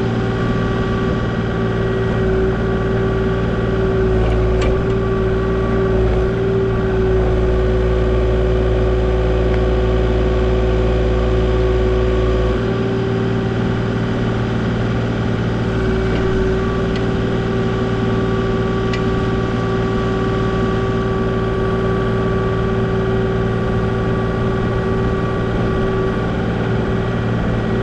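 Kubota KX040 mini excavator's diesel engine running steadily. About twelve and a half seconds in, the deep part of its sound drops and its tone shifts.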